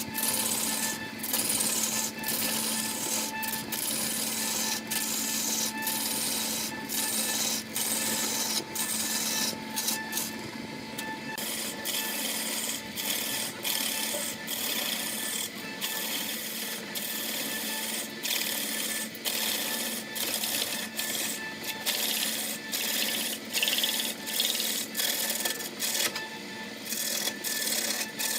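Wood lathe running with a steady hum while a hand-held tool rubs against the spinning segmented wooden cylinder: a rough hiss broken by many brief gaps as contact lifts and returns.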